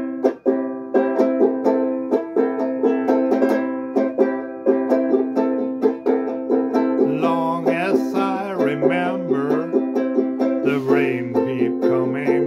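Music: a plucked string instrument strummed in an even, steady rhythm of chords. A lower melody line joins about seven seconds in and comes back near the end.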